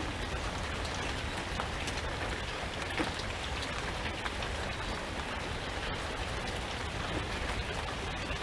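Steady rain falling, with many small drops ticking on a surface and one slightly louder drop or tap about three seconds in.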